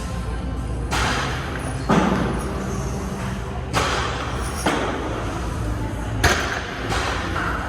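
Heavy thuds and slams echoing in a large room, about six at uneven intervals: weights being set down or dropped in a gym.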